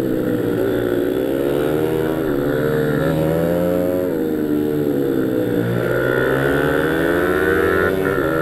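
Pit bike engine running hard on a circuit, its pitch rising and falling again and again as it revs up and backs off.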